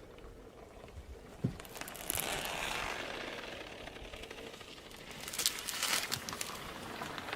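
Crackling and crunching of things being crushed under a car tyre, in two spells: about two seconds in and again around five to six seconds in.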